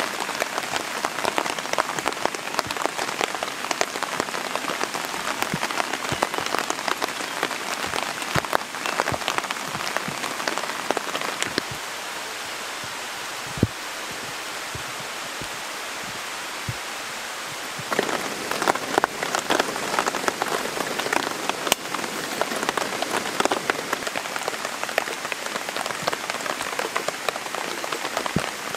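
Steady rain in a forest, with dense, close drops pattering on a tarp shelter overhead. From about twelve seconds in to about eighteen the close drop taps fall away, leaving a smoother, softer hiss of rain on the foliage before the pattering returns.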